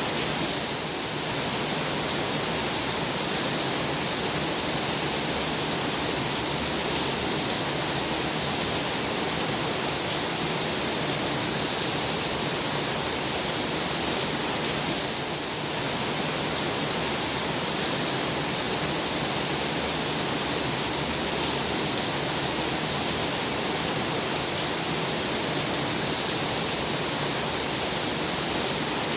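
Heavy rain pouring steadily, a dense, even hiss with no single drops standing out; the level dips slightly for a moment about halfway through.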